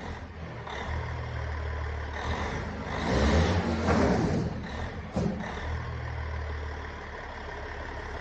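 Caterpillar C15 inline-six diesel in a heavy-haul truck running with a steady low note, swelling louder for about a second around three to four seconds in, with a short sharp click about five seconds in.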